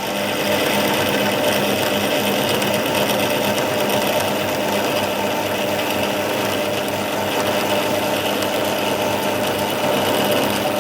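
A metalworking machine or power tool running steadily, a constant mechanical hum with a hiss above it.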